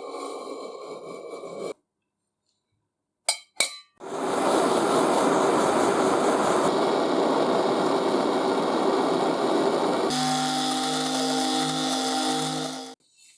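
Workshop power-tool sounds in separate edited cuts: two sharp clicks, then a few seconds of loud, even grinding-type noise, then a steady machine motor hum that cuts off near the end.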